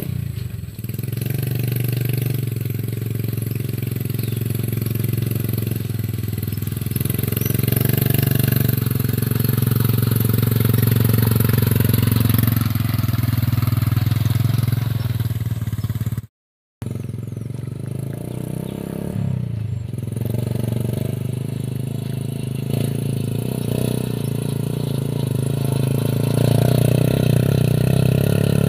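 Homemade three-wheeled cargo motorcycle, powered by a Honda Supra single-cylinder four-stroke engine, running steadily as it carries a heavy load of cut grass. The sound breaks off for a moment past the middle, and the engine speeds up near the end.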